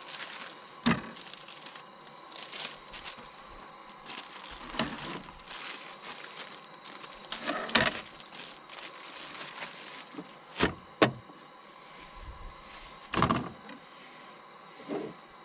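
Cooking in a frying pan on a camp stove: a utensil knocking and scraping in the pan, about eight separate knocks spread out, over a faint steady hiss.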